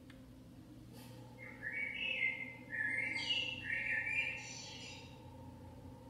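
A songbird singing a short run of quick, gliding phrases, starting about one and a half seconds in and stopping near the fifth second.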